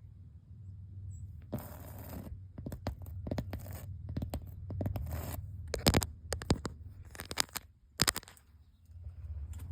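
Hands scratching and scraping at the painted surface of an old building: short bursts of scraping, several sharp clicks and ticks, and a low steady rumble underneath.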